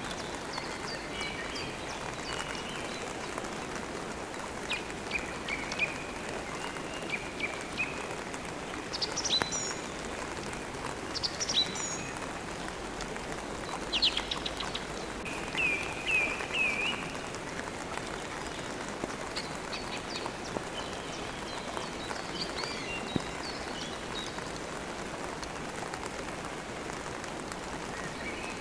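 Steady rain with songbirds twittering over it: short runs of quick, high chirps come and go, the loudest in the middle.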